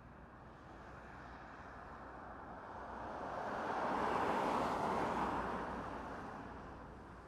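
A road vehicle passing by, its tyre and road noise swelling to a peak about halfway through and then fading away.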